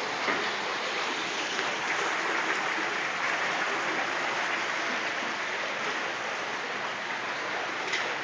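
Floodwater rushing and flowing steadily.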